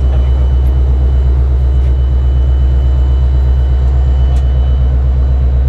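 Diesel locomotive engine idling: a loud, steady low hum with a faint high whine.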